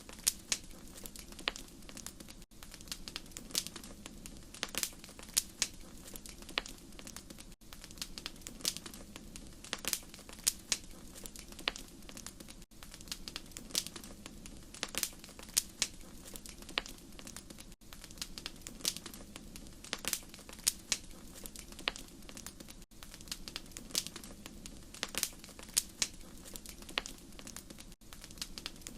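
Fireplace fire crackling: a steady stream of irregular sharp pops and snaps over a low steady rush, with a brief gap about every five seconds.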